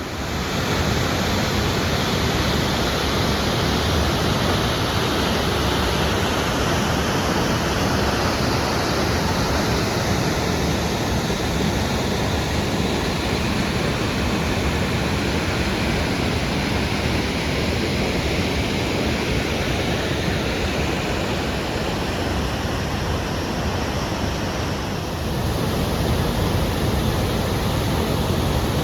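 Tumalo Falls pouring into Tumalo Creek: a steady, loud rush of falling water, with a brief small dip in level near the end.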